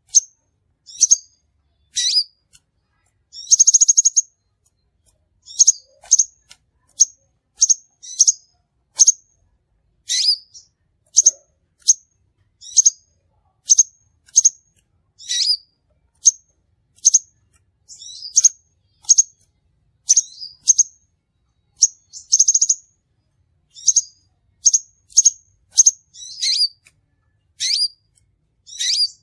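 Crimson sunbird calling: a steady run of short, sharp, high-pitched chirps, about one or two a second. Two longer buzzy trills come about four seconds in and again past the middle.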